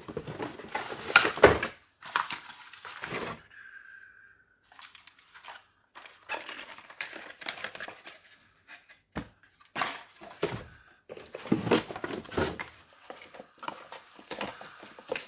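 Plastic and cardboard packaging crinkling and rustling in irregular bursts, with a few short knocks, as parts of a cordless stick vacuum are unpacked from the box.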